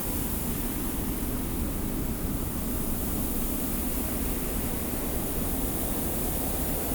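Steady desert wind blowing with hissing sand, an even rushing noise with a deep rumble underneath and no gusts or breaks.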